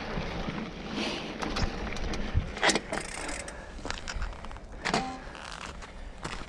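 Mountain bike ridden along a dirt trail: a steady rolling rumble with many sharp clicks and rattles from the bike, the loudest about two and a half seconds in and again about five seconds in. Wind buffets the microphone throughout.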